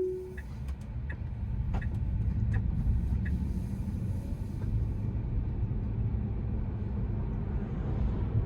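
Steady low road and tyre rumble inside a Tesla Model 3's cabin, with no engine note, as the electric car drives along. A short chime tone ends right at the start, and faint ticks come about every 0.7 s for the first few seconds.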